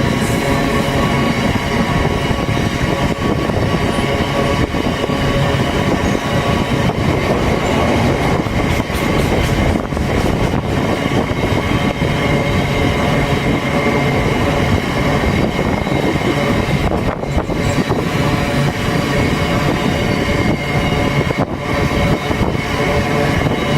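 A train running close by on the main line, a loud steady rumble of wheels on rail with several steady tones over it.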